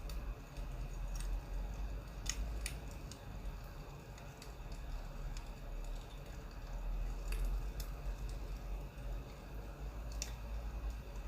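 Crackling wood fire, with sharp pops at irregular intervals over a low steady rumble.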